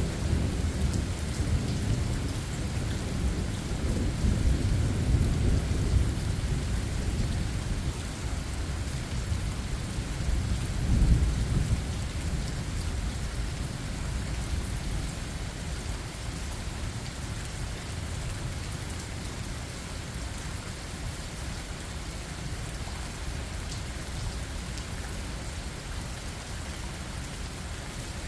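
Steady rain falling, with thunder rumbling through the first half; the loudest rumble comes about eleven seconds in, then the thunder fades and only the rain remains.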